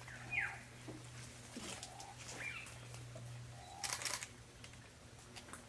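Two short, falling bird whistles, the first near the start and the second about two and a half seconds in, over a steady low hum. Just under four seconds in, a camera shutter fires a quick burst of clicks.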